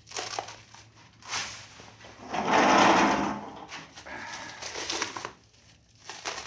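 Packaging being handled during unpacking: rustling and crinkling with small clicks and knocks, and a louder rustling scrape about two and a half seconds in.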